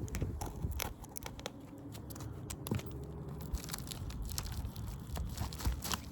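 Scattered crackling and scraping on an asphalt shingle roof, short irregular clicks over a low steady rumble.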